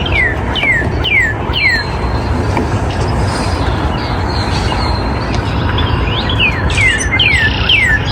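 Songbirds singing: runs of quick whistled notes, each sliding down in pitch, once near the start and again near the end, with other chirps between. A steady low rumble runs underneath.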